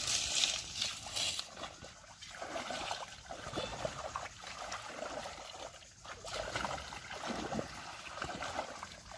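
Shallow pond water sloshing and trickling, stirred and splashed by hands working through it, with a louder hissing splash in the first second or so.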